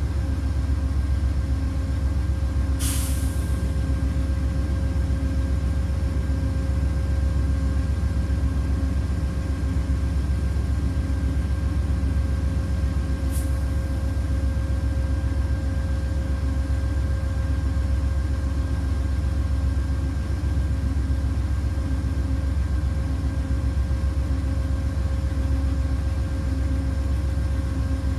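Stopped Amtrak passenger train idling at the platform: a steady low diesel rumble with a constant hum. A short hiss of air about three seconds in, and a fainter one near the middle.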